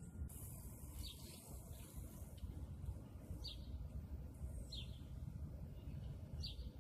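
A small bird chirping: four short, falling chirps a second or two apart, over a faint steady low rumble.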